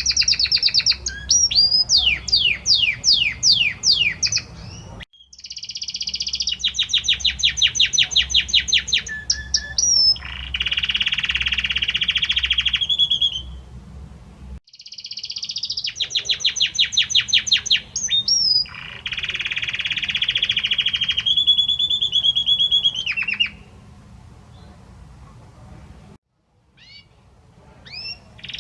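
A male Belgian canary singing a courtship song in long phrases of fast trills and rolling notes, with quick falling whistles between them. The song breaks off briefly twice and grows quieter near the end.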